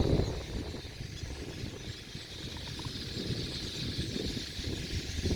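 Wind buffeting the microphone in uneven low gusts, strongest at the start, over a steady high chatter from a large flock of small birds at the water.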